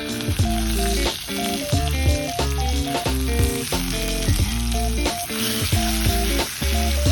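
Thick steak sizzling and frying over a campfire, a steady crackling hiss, under background music with a melody and a bass line.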